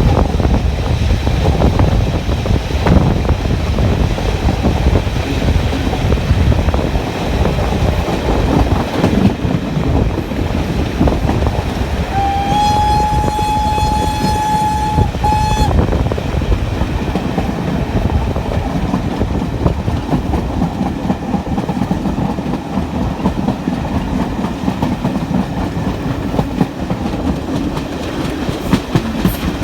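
Train running on heritage railway track, a steady loud rumble with wheel clatter. About twelve seconds in it sounds one long single-note horn blast of roughly three seconds, with a brief break just before it ends.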